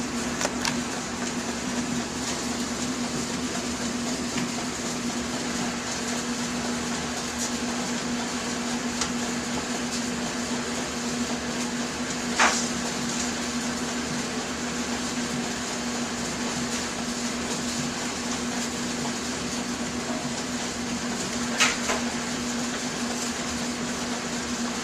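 Steady background noise with a constant low hum, broken twice by a brief faint click.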